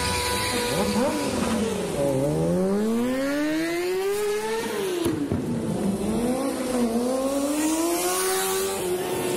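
Motorcycle engines revving up and down through a stunt and drift run. The pitch dips about two seconds in, climbs to a peak, drops sharply around five seconds, then rises and holds high near the end.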